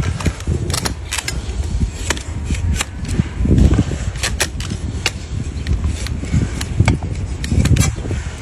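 Sharp, irregular snaps and clicks of donkey hoof horn being cut during hoof trimming, several a second, over a low rumble.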